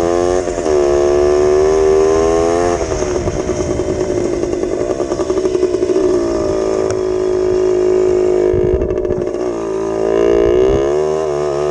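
1983 Yamaha DT80 single-cylinder two-stroke engine revving up and down under changing throttle. A middle stretch of quick, choppy throttle pulses sits between steadier higher-revving runs, and the revs climb again near the end.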